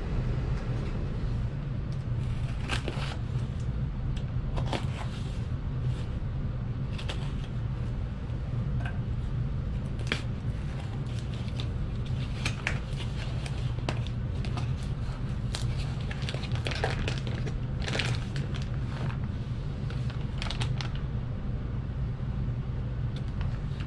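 A cardboard shipping box being cut open and unpacked: scattered clicks, crackles and crinkles of tape, cardboard and packaging, over a steady low hum.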